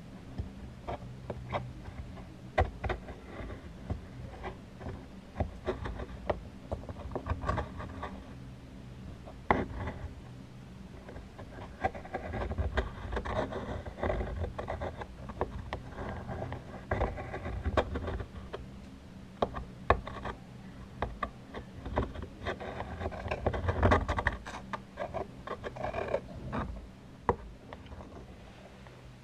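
Irregular taps and clicks mixed with stretches of scratchy rubbing, made by handling objects close to a microphone for ASMR.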